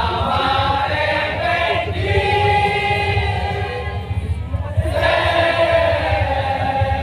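Madurese daul (tong-tong) band music: a choir-like melody of long held notes over a dense, steady low drum pulse. The melody breaks off briefly about two seconds in and again just before five seconds.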